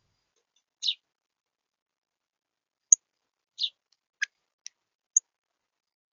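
Small birds at a feeder: six short, well-spaced sounds, two of them sharp, high chip notes and the rest dry clicks and rasps, with silence between.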